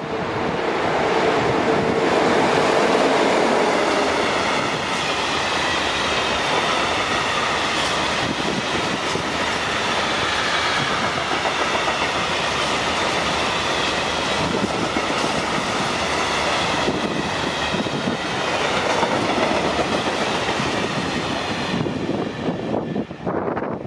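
A train running past on the rails: a steady, loud noise of wheels on track with faint high ringing tones above it, easing off in the last couple of seconds.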